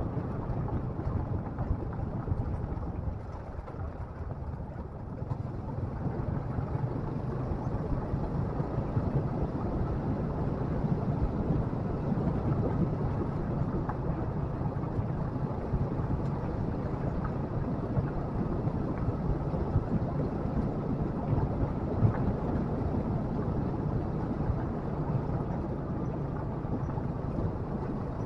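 Motorcycle engine running steadily under way, with wind rushing over the microphone; the engine eases off briefly a few seconds in.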